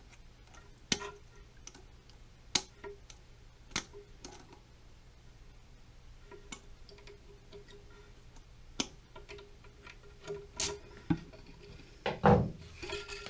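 Scattered light clicks and clinks from a toilet flapper chain and tank parts being handled and tested, a few seconds apart, with a fuller knock near the end.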